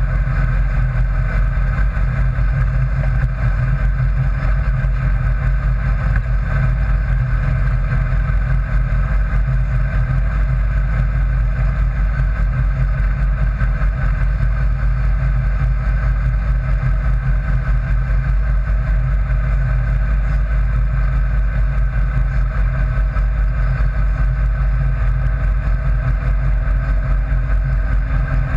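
Sand rail's engine running steadily at cruising speed on the highway, a constant deep drone that holds the same pitch throughout.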